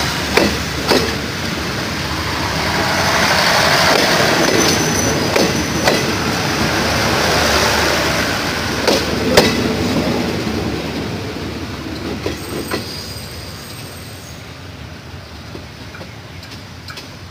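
Passenger train coaches rolling past close by: steel wheels clatter over rail joints, with sharp knocks and brief high wheel squeals. The noise fades from about ten seconds in as the end of the train draws away.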